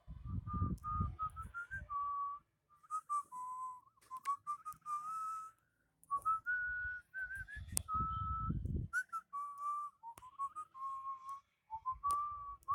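A person whistling a tune: a single clear note stepping up and down in short phrases with brief pauses. Low rumbling noise comes in during the first two seconds and again around eight seconds in.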